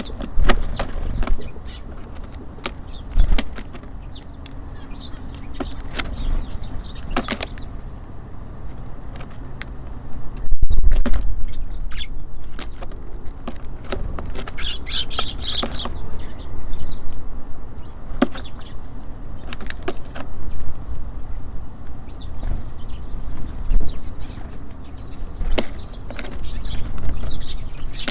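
Small birds at a wooden feeder: scattered sharp taps and clicks of beaks pecking and feet landing, a short burst of high chirps about halfway through, and a loud thump a little before that, over a steady low rumble.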